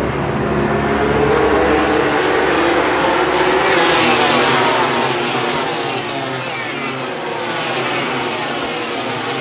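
Several MotoGP race motorcycles going by at speed, their engine pitches overlapping and sweeping up and down as they pass.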